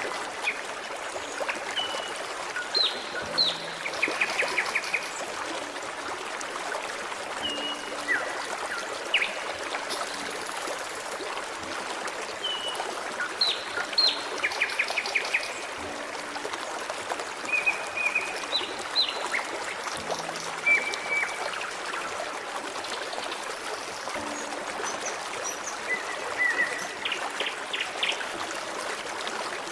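Forest stream trickling steadily, with small birds singing over it: short whistled notes, quick downward-sweeping calls and several rapid trills.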